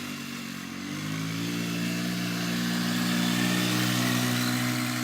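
Small 90cc four-wheeler engine running under throttle: its note steps up about a second in and grows louder as it holds a steady drone, easing off near the end.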